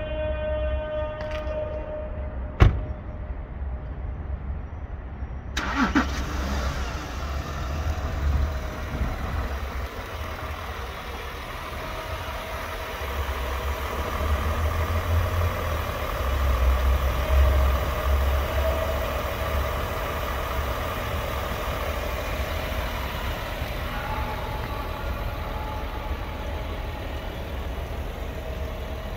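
A car door shuts with a single sharp thud about three seconds in. A few seconds later the 2015 Porsche Cayenne Diesel's V6 turbodiesel starts and runs at a steady idle, with a deep rumble that grows louder for a few seconds partway through.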